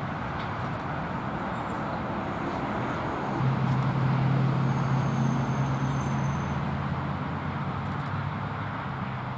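Steady outdoor road-traffic noise, with a motor vehicle's engine hum swelling as it passes, loudest from about a third of the way in until a little past the middle.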